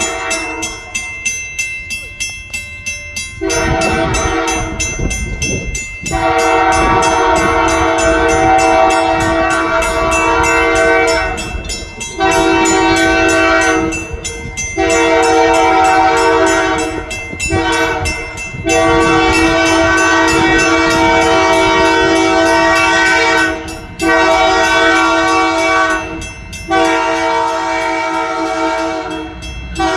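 Canadian Pacific Holiday Train locomotive's air horn sounding a chord in a series of long and short blasts, starting a few seconds in, over the low rumble and clack of the train rolling by.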